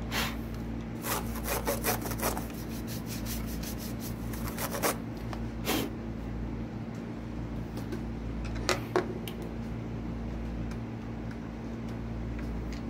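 Hands handling a laptop and its charger: a run of taps, rubs and small knocks, then two sharp clicks about nine seconds in, over a steady low hum.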